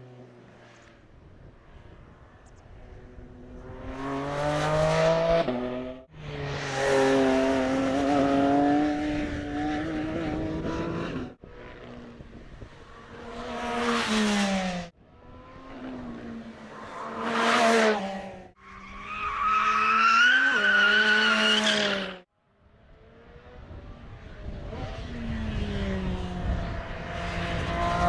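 Porsche 718 Cayman GT4 RS's 4.0-litre naturally aspirated flat-six revving up hard again and again, in several runs that each cut off abruptly. About two thirds of the way through, tyres squeal over the engine.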